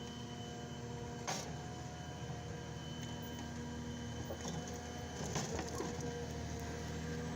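Heavy forestry machine's diesel engine running steadily, with two sharp cracks of wood or metal, one about a second in and a louder one past the middle.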